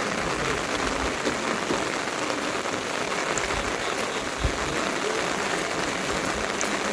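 Steady rain falling, an even hiss with a few faint drop ticks in it.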